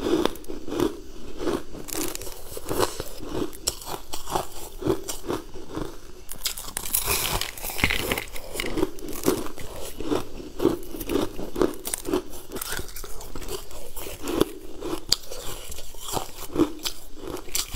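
Close-up crunchy biting and chewing of a frozen pink sweet: sharp crackling crunches over steady chewing, about one or two chews a second.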